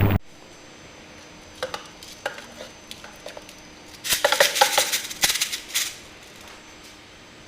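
Small metal parts and tools clinking and rattling as they are handled on a workbench: a few light clicks, then a busier run of clinks for about two seconds just past the middle.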